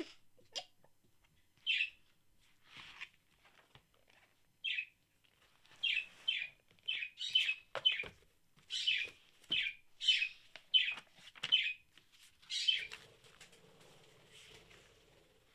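A bird chirping in short single chirps, a few seconds apart at first, then in quick runs from about six seconds in. The chirps stop about thirteen seconds in, leaving a faint steady hum.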